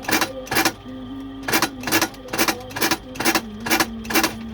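Repeated sharp hammer strikes on a shoe, about two a second, at a cobbler's bench. A man's drawn-out chanted recitation is held underneath.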